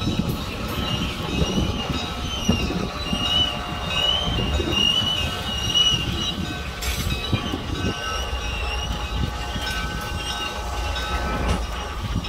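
Freight train passing a grade crossing: diesel locomotives, one an ex-Canadian National unit, rumble by, then tank cars roll over the rails. Wavering high wheel squeal rides above the rumble for about the first half.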